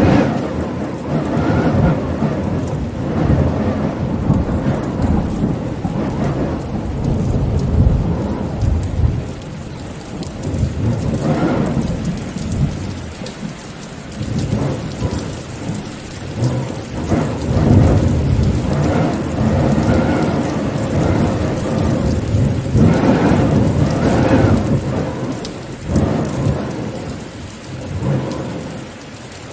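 Steady rain falling, with low rolling rumbles that swell and fade several times.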